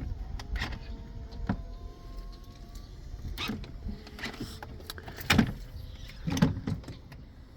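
Power-folding third-row seats of a 2017 Ford Explorer stowing: the electric seat motors whine with a slowly rising tone, with clicks and two louder clunks about five and six and a half seconds in as the seatbacks fold down.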